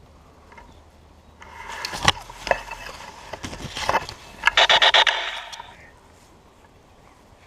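Scraping and clicking handling noise, then a rapid burst of about seven evenly spaced electronic pulses, typical of a laser tag gun firing.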